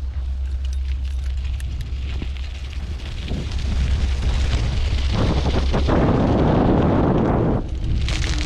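Wind buffeting the microphone during a bike ride: a steady low rumble with rushing noise that grows louder about four seconds in, drops briefly near the end, then comes back.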